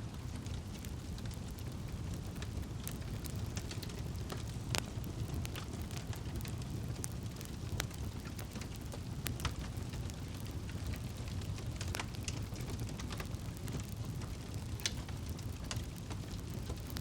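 Campfire burning: a steady low rush of flame with scattered sharp crackles and pops from the burning wood.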